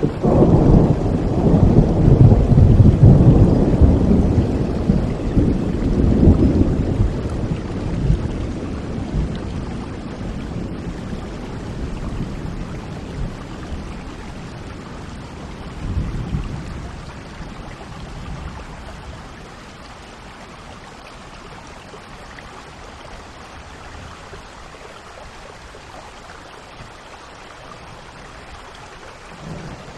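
Steady rain with rolling thunder: a long low rumble over the first several seconds that slowly dies away, a shorter rumble about halfway through, and another one starting near the end.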